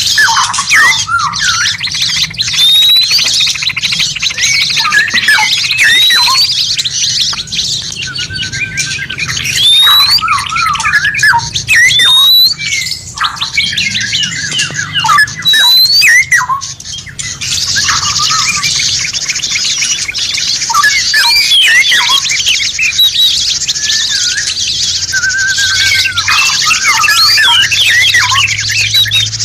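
Loud, dense songbird song from several birds: rapid chirps and trills with repeated rising whistles. A little past halfway a thick, continuous high chatter sets in under the calls.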